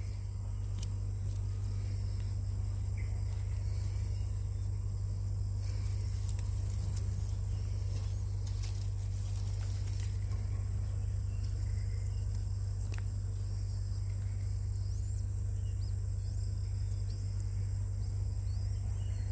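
Steady low hum under a steady high-pitched whine, with faint scattered clicks and small chirps in the second half.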